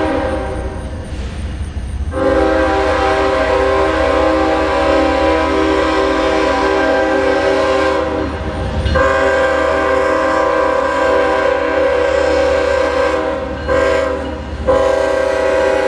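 Freight locomotive air horn sounding a steady multi-note chord in long blasts separated by brief breaks, with a short blast shortly before the last break and another long blast near the end.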